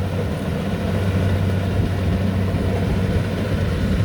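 Rice combine harvester's engine running steadily, an even low drone with no change in pitch.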